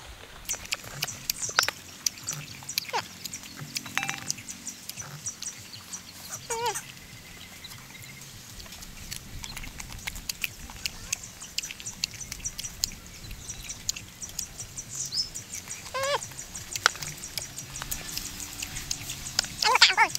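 Crisp crunching and chewing of unripe green mango, with many small clicks throughout. Over it, short animal calls that sweep down in pitch come several times, the loudest near the end.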